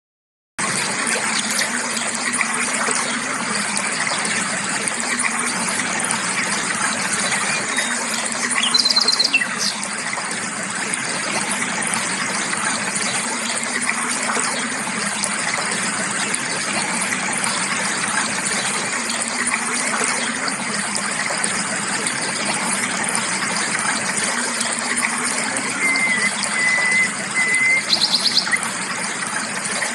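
A creek flowing with a steady rushing sound, and a few short bird calls above it: one about nine seconds in, and a short run of chirps followed by another call near the end.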